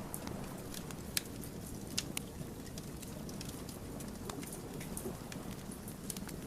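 Wood fire crackling: sharp pops and snaps from the burning logs over a steady low rush of flame. The loudest pops come about a second in and at two seconds.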